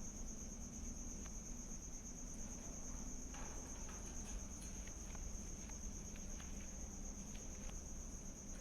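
A cricket trilling steadily and continuously at a high pitch, with a few faint scattered clicks and taps over a low hum.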